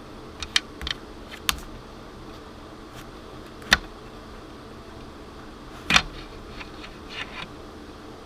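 A handful of sharp clicks and knocks at irregular intervals over a steady hiss, the loudest about six seconds in.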